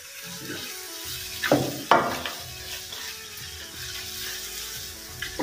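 Ker sangri sizzling as it fries in oil in a stainless steel kadhai while it is stirred with a wooden spatula. The spatula knocks sharply against the pan twice, about one and a half and two seconds in.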